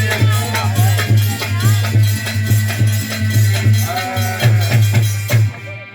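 A live folk band plays an instrumental interlude between sung lines: fast, even drumming with a strong low beat and a wavering melody line over it, stopping abruptly shortly before the end.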